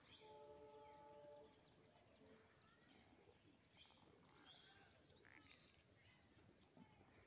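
Faint outdoor birdsong: many short, high chirps from small birds scattered throughout. A steady pitched tone sounds for about a second near the start.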